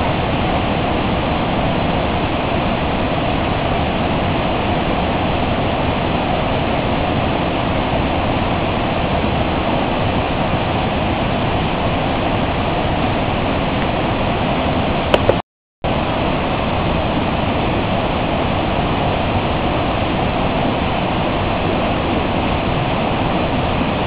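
Waterfall: a steady rush of falling water, cut off for a split second about two-thirds of the way in.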